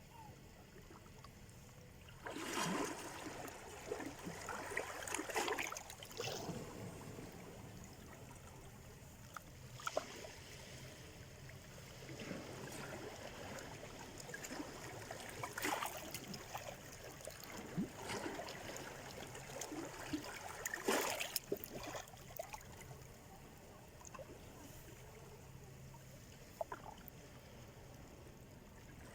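Small sea waves washing in on the shore: irregular surges of splashing and trickling water every few seconds over a low steady wash, the strongest near the start and about twenty seconds in.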